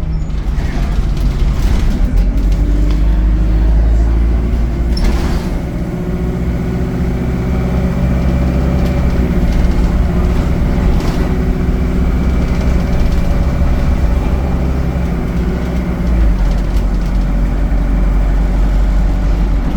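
ADL Enviro 200 bus's diesel engine running under way with a strong low rumble; its note climbs for a few seconds, eases off, then holds steady.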